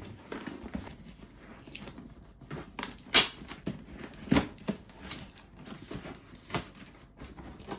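A cardboard box and its packaging being handled and opened by hand: scattered knocks, scrapes and rustles, the loudest knock about three seconds in.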